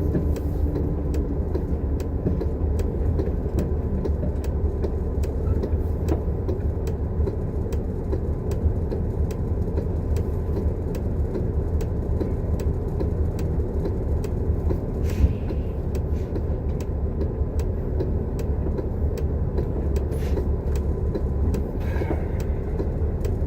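Steady engine and road rumble inside a moving city transit bus, with a faint regular ticking over it.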